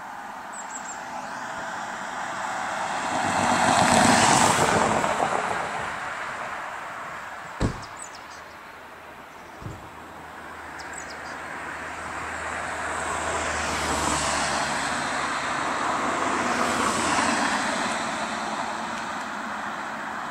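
A car drives past, rising to a peak about four seconds in and then fading. Two sharp knocks come a couple of seconds apart, followed by a longer swell of passing car noise with a low engine hum.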